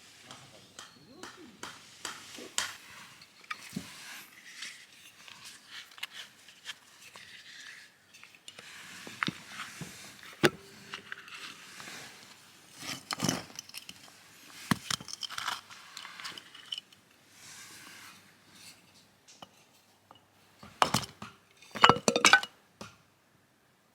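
Hands at work with camp gear: crinkling and tearing of packaging, scrapes and light clinks of cookware. A cluster of sharper knocks comes near the end.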